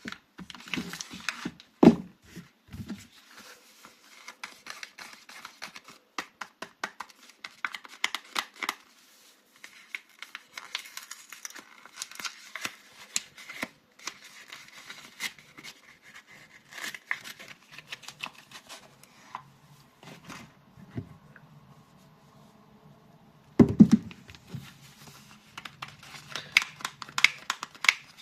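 Soap packaging being crinkled and torn open by hand as soap bars are unwrapped, in dense runs of crisp crackles. A single sharp thump at about 24 s stands out as the loudest sound.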